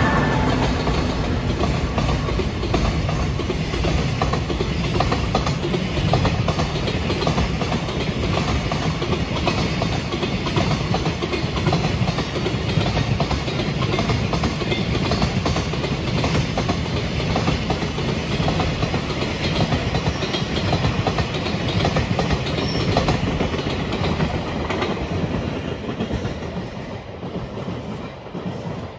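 A long JR Freight container train passes close by, its EF210 electric locomotive at the head and then a string of container flat wagons rolling past with a steady rumble and rattle of wheels on rail. The sound fades over the last few seconds as the end of the train goes by.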